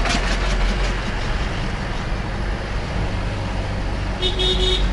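Steady rumble of strong wind on the microphone mixed with road traffic, with a vehicle horn tooting briefly near the end.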